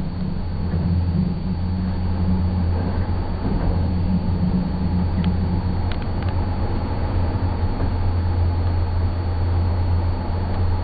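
Passenger train running on the rails with a steady low rumble, a few faint clicks about halfway through.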